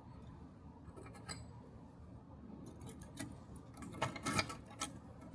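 Small metal pieces clicking and clinking against one another: a few scattered clicks, then a quick cluster of them about four seconds in.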